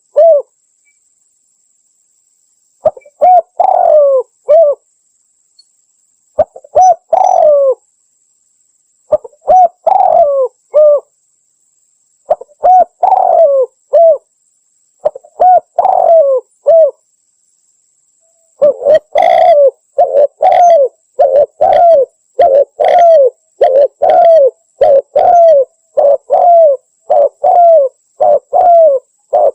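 Spotted dove (tekukur) cooing: short phrases of a few coos about every three seconds with dead silence between them, then from about two-thirds of the way through a faster, almost unbroken run of coos.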